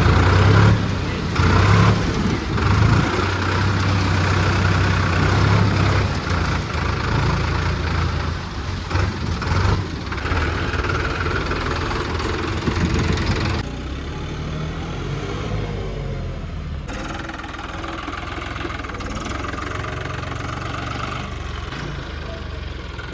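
Tractor engine running steadily. About 14 seconds in it drops abruptly to a quieter level.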